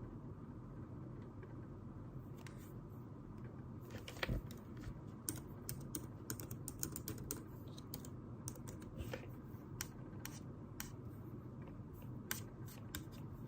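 Irregular clicks of typing on a keyboard, sparse at first and coming in quick runs from about four seconds in, over a steady low room hum.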